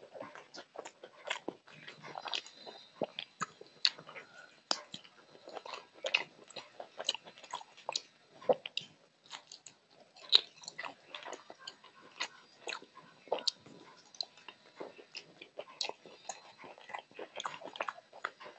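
Close-miked wet chewing and mouth smacks of someone eating rice and curry by hand, in quick irregular clicks.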